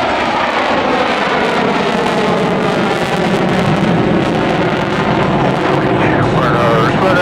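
Jet engines of four F/A-18 Super Hornets in close formation passing overhead. A loud, steady rushing roar with shifting whining tones, flying slow with landing gear and tailhooks down.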